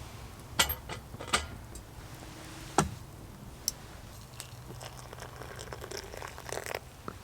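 A few sharp, separate knocks and clinks spread over the first few seconds, then a run of lighter clicks and rustling near the end.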